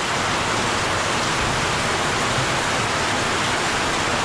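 Heavy tropical downpour: steady rain hissing and pattering on surfaces.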